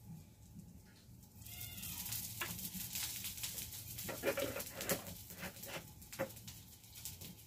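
Aloo tikki frying in a shallow pan on a clay wood-fired stove: a crackling sizzle that swells up about a second and a half in and runs on, with a short animal call, like a bleat, as it starts.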